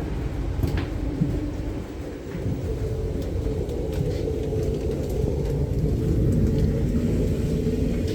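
Passenger train running along the track, a steady low rumble heard from inside the carriage, with a few faint ticks.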